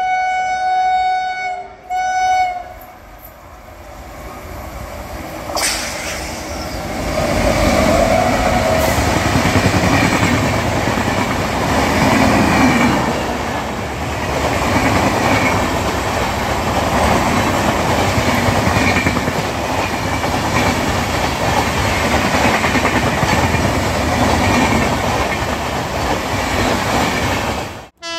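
Electric locomotive horn sounding twice, a long blast then a short one, as an express train approaches. The train then runs through at speed: loud wheel-on-rail noise builds from about six seconds in and stays loud as the coaches pass, until the sound cuts off suddenly near the end.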